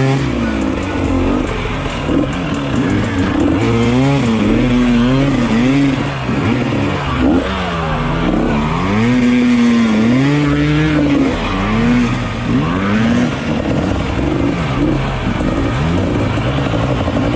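Dirt bike engines revving, rising and falling in pitch about once a second, sometimes two at once, like motocross bikes working through a track.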